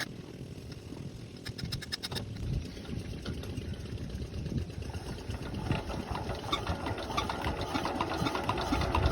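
A tube well's diesel engine running with a steady knocking beat, getting louder from about halfway through. A few quick clicks come about two seconds in.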